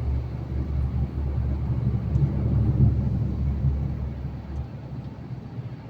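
Truck driving: steady engine and road noise with a deep low drone that drops away about four and a half seconds in.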